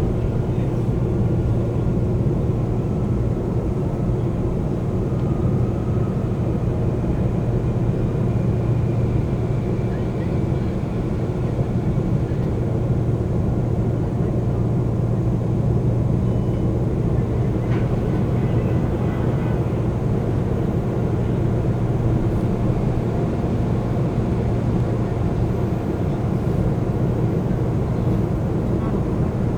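Inside a Seoul Metro Line 2 subway car stopped at a station: a steady low hum from the car's equipment and ventilation, with an even background of station and cabin noise.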